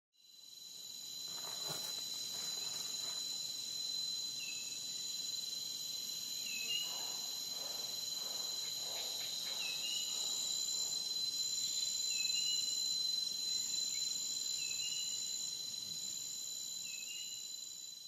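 Steady chorus of insects, several high-pitched trills held without a break, with a short rising chirp repeating about every two seconds. A few faint knocks sound underneath. The whole fades in at the start and fades out at the end.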